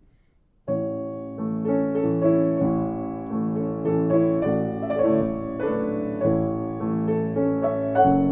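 Piano playing, starting suddenly about a second in out of near silence: a flowing line of notes over held chords.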